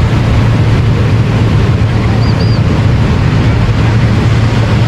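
Steady, loud wind rumble on a small action-camera microphone over ocean surf, with two short high chirps a little past two seconds in.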